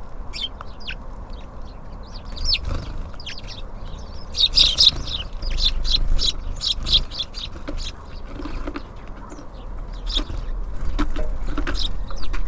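Small songbirds at a bird feeder, giving many quick, short chirps that are thickest from about four to seven seconds in, with a few sharp clicks among them. A low, steady rumble runs underneath.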